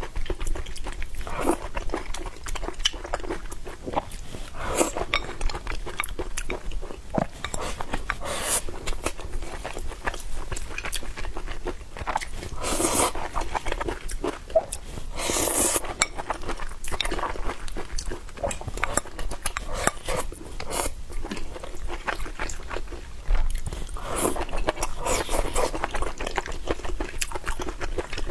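Close-miked eating: irregular biting and chewing, with several longer noisy bursts spread through.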